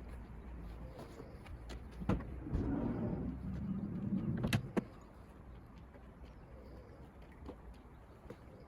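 A latch clicks about two seconds in, then a rolling rumble runs for about two and a half seconds and ends in a sharp knock: a Nissan NV350 Caravan van's sliding side door being slid along its track.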